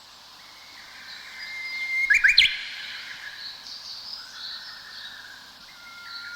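A songbird singing a repeated phrase: a long held whistle that swells in loudness and ends in a few quick, sharply rising notes, the loudest moment about two seconds in. The phrase starts again near the end, with fainter high chirps from other birds between.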